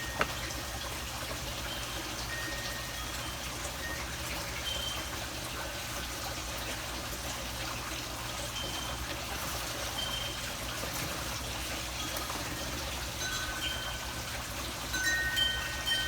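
Steady trickling water, with short high ringing tones at a few fixed pitches sounding now and then, more of them near the end. A single sharp click comes just after the start.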